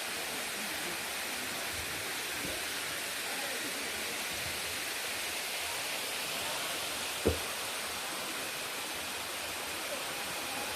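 Steady rush of water cascading over a limestone waterfall, with a single brief thump about seven seconds in.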